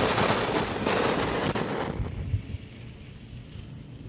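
Colour smoke balls hissing as they burn, the hiss cutting off abruptly about two seconds in as the last one burns out.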